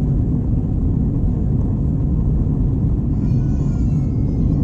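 Airbus A321 cabin noise in flight: the steady, deep rumble of engine and airflow heard from a window seat at the rear of the cabin. A brief, faint, high-pitched tone that falls slightly in pitch rises above it about three seconds in.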